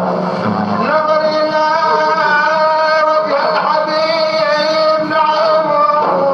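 A male voice singing an old madih praise song in long, wavering held notes, with a short break and slide in pitch about halfway through. Drum strokes stop about a second in.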